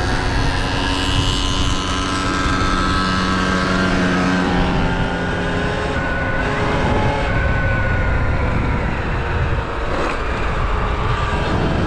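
Dirt bike engines running, their pitch drifting up and down as the throttle changes, over a heavy low rumble.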